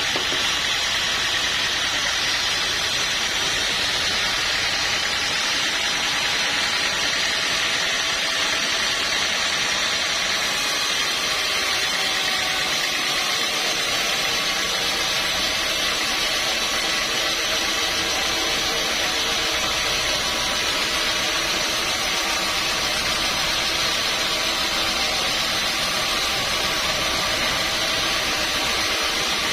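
Sawmill machinery running steadily: a constant mechanical noise with several steady whining tones.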